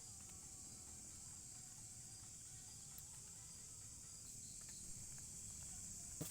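Faint, steady, high-pitched chorus of forest insects such as crickets or cicadas, with a single sharp knock at the very end.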